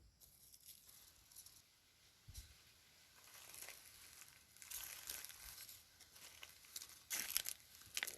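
Faint rustling and crinkling in irregular bursts, louder in the second half, with a stronger crackle about seven seconds in.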